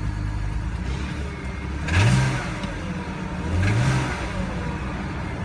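2005 BMW 525i's straight-six engine idling, blipped twice with quick throttle revs, about two seconds in and again near four seconds, each rising and falling back to idle.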